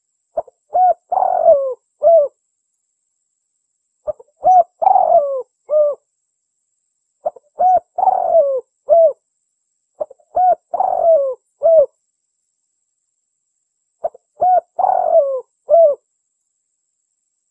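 Spotted dove cooing in five phrases about three seconds apart. Each phrase is a few short coos around a longer, louder middle note.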